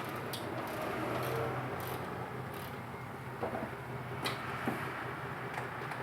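A few light, separate clicks and knocks of hand tools and screws being handled while a truck's splash-shield screws are being taken out, over a steady low hum.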